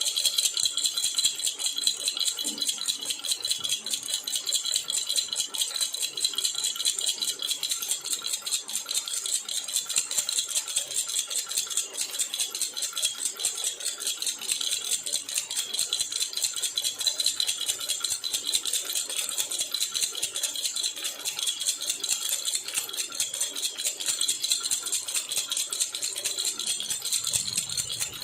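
Jhunjhuna baby rattle shaken steadily and continuously, a dense, rapid, bright jingling.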